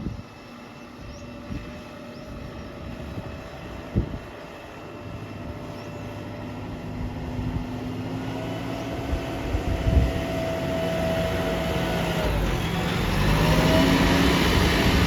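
Heavy diesel machinery engine running, growing steadily louder and revving up near the end, with a couple of sharp knocks along the way.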